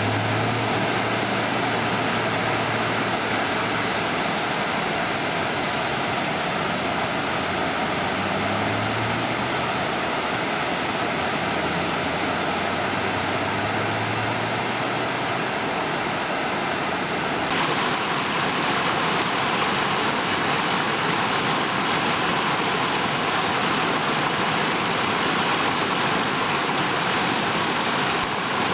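Floodwater rushing steadily in a swollen creek. In the first half, the low hum of passing vehicles rises and fades a few times. Past the middle the rushing changes abruptly and becomes brighter.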